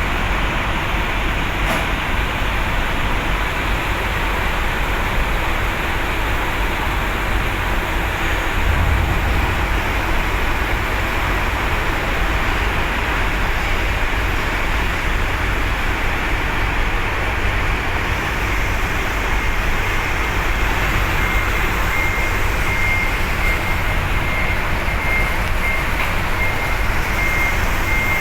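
Truck engines running, a steady loud din with a deep rumble, as trucks wait to drive off a ship's vehicle deck. About two-thirds of the way through, a high, rapid electronic beeping joins in and keeps going.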